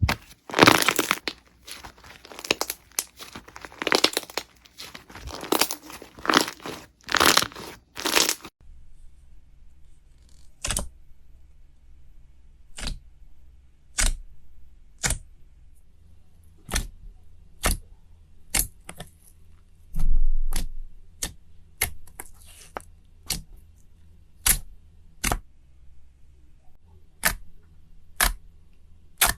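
Slime being squeezed and stretched with dense crackling and tearing sounds for about eight and a half seconds. Then it changes abruptly to single sharp pops, about one a second.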